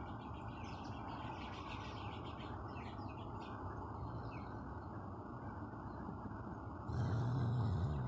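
Small birds chirping on and off over a steady low background hiss. Near the end a brief, louder low sound with a wavering pitch comes in.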